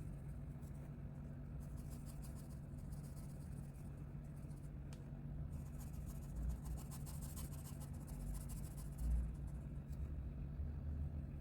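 Colouring on paper: a colouring tool scratching across the page in rapid repeated strokes, busiest from about halfway through until near the end, over a steady low hum.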